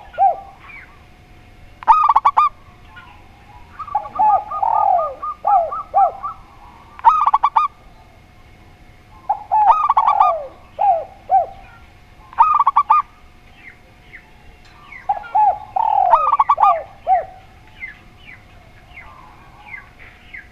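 Spotted dove and zebra dove cooing, their phrases of quick curved notes repeating every two to three seconds, with short gaps between.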